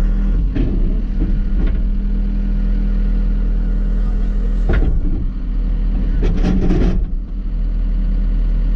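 John Deere 331G skid steer's diesel engine running steadily, heard from the cab, with a few short knocks about five and six and a half seconds in.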